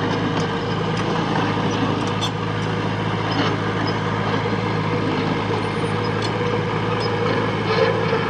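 Diesel engine of heavy earthmoving machinery running steadily with an even low hum, with a few faint clanks.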